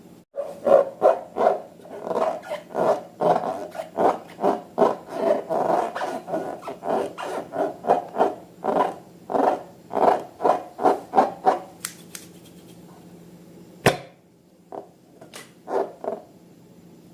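Rubber balloon squeaking over and over as it is rubbed and squeezed, about three squeaks a second, stopping at about two-thirds of the way through. A single sharp snap follows, then a few more squeaks.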